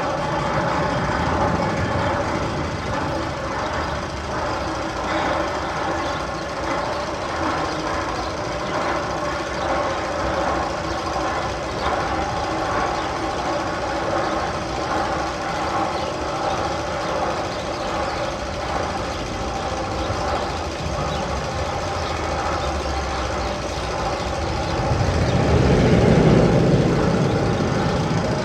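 Sound effect played through loudspeakers in the Magnum XL-200 roller coaster's tunnel: a steady machine-like drone with several held tones, like a running engine, that swells louder and deeper about 25 seconds in.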